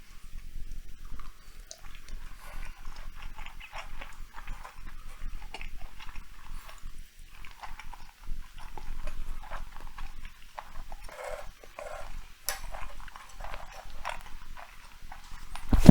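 Cat chewing and eating meat close to the microphone: irregular wet chewing and smacking sounds. A loud thump near the very end.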